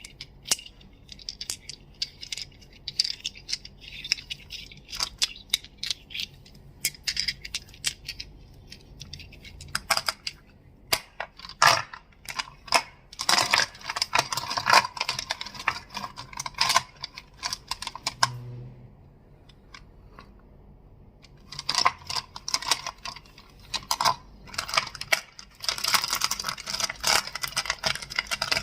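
Crystals clicking and clacking against each other in rapid clusters of sharp clicks, with a lull of a few seconds about two-thirds through.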